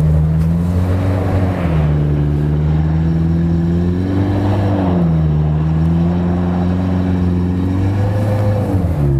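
Off-road 4x4's engine running hard, its revs rising and falling about three times as the driver works the throttle.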